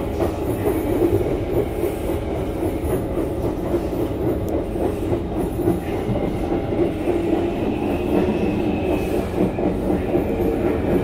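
SMRT C151 train running along the line, heard from inside the carriage: a steady rumble of wheels on rail, with a faint high tone from about six to nine seconds in.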